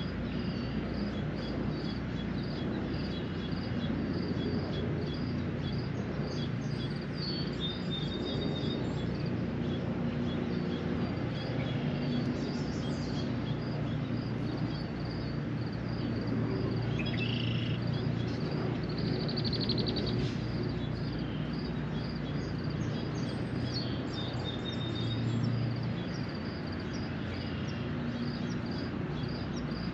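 Steady spring rain shower with a low background rumble, and small birds chirping and trilling now and then.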